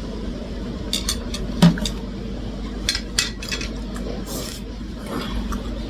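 Scattered light clinks of cutlery against dishes while eating, about half a dozen separate taps over a few seconds, with a steady low hum underneath.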